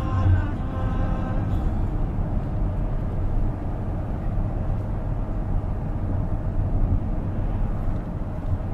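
Steady road and engine noise inside a moving car, heaviest in the low end, with the last notes of a song from the car's speakers fading out in the first second or so.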